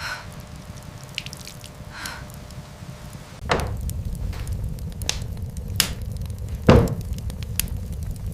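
Water dripping among scattered small knocks and clicks. About three and a half seconds in a heavy thud comes and a steady low rumble sets in, and a second loud thud follows near the end.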